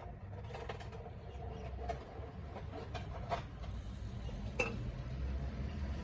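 Scattered metallic clicks and knocks from hand tools being worked on the car, over a steady low rumble.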